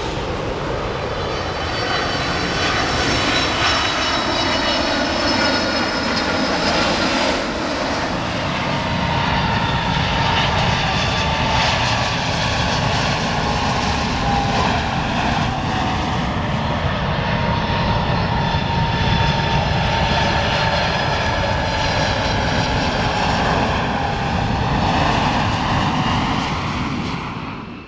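Jet airliner on landing approach, its engines running with a steady rushing noise and a high whine that drifts slowly in pitch. The sound cuts off abruptly near the end.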